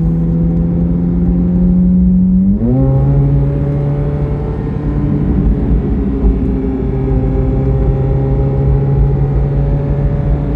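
Chevrolet Corvette C8 Z06's flat-plane-crank V8 pulling under steady throttle, its pitch slowly rising, then dropping sharply about two and a half seconds in as the dual-clutch gearbox shifts up, after which the engine holds a steady lower note.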